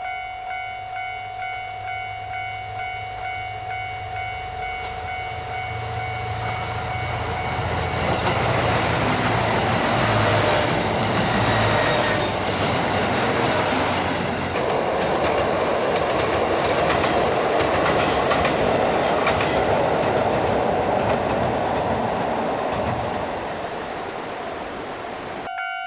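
Railway level-crossing alarm bell ringing in a steady rapid beat, about two strikes a second. About eight seconds in, a passing train drowns it out, its noise swelling and then fading over some fifteen seconds. The bell's beat is heard again at the end.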